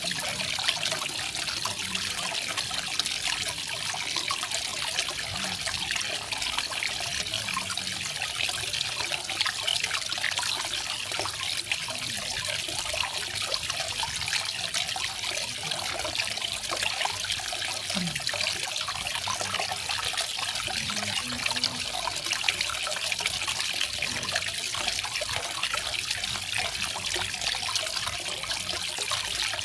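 Small garden waterfall: water trickling and splashing steadily into a pool, a bright, even patter.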